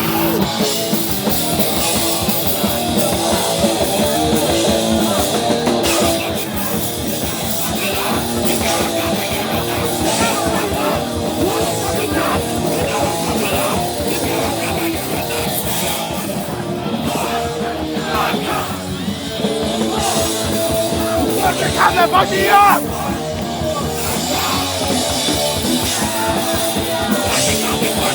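Hardcore punk band playing live and loud, heard from inside the crowd: fast drums, distorted guitars and shouted vocals. A brief louder burst comes about three quarters of the way through.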